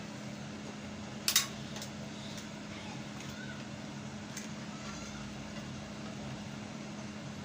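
A few light clicks and taps from handling the fan motor's wires while checking them, the sharpest about a second in, over a steady low hum.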